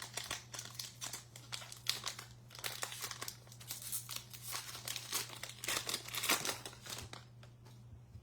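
Wrapper of a Topps Archives baseball card pack being torn open and crinkled, irregular crackling that dies down about seven seconds in.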